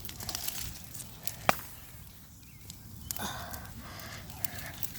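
Bonfire of dry tree branches crackling, with scattered sharp pops and one loud crack about a second and a half in. A short breathy rustle follows a little after three seconds.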